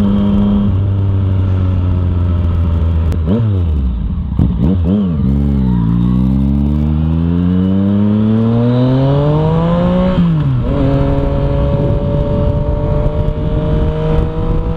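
Yamaha FZ-09's three-cylinder engine through an Arrow exhaust with the dB killer removed, under way on the road. It holds a steady note, dips and rises quickly a couple of times, then climbs in pitch for about four seconds under acceleration. The pitch drops sharply at a gear change about ten seconds in, and the engine then pulls on steadily.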